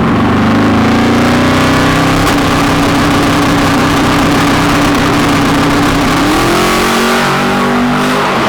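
Big-wheel drag car's engine at full throttle: the pitch climbs, holds at high revs for several seconds, then climbs again about six seconds in.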